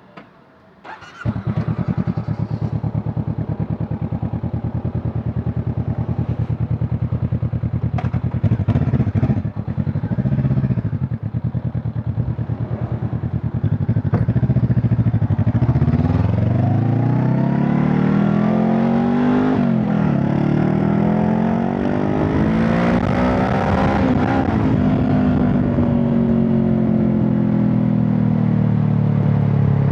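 Honda CB500 Hornet's parallel-twin engine starting about a second in and idling, with a couple of short throttle blips. It then pulls away, its revs climbing twice with a drop between them at a gear change, then easing off near the end.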